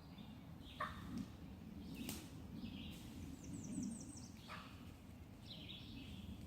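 Faint outdoor ambience: small birds chirping, with a quick run of high repeated chirps near the middle. Under it runs a steady low rumble, broken by a few short crackles and a sharp click about two seconds in.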